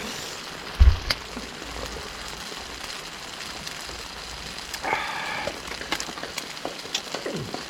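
Steady rain falling, with a small wood fire crackling in a Picogrill 85 fire pit. A low thump comes about a second in, and a short pitched call about five seconds in.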